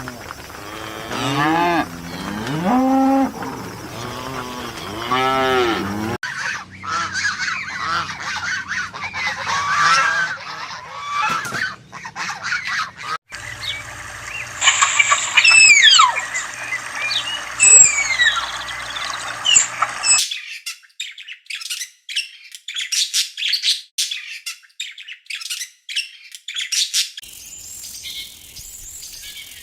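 A string of short animal recordings cut together. Cattle mooing in the first few seconds, then other animal and bird calls with honking and squawking. From about two-thirds of the way through, a dense, fast, high chirping of insects.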